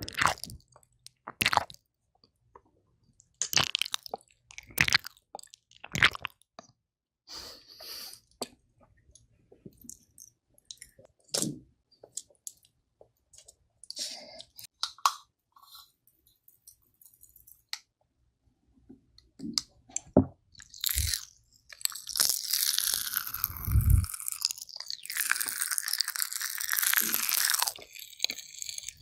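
Close ear-cleaning scratches from an ear pick on a microphone ear: short, separate scrapes and crackles with pauses between them, then, about three-quarters of the way in, a dense continuous scraping close on the mic.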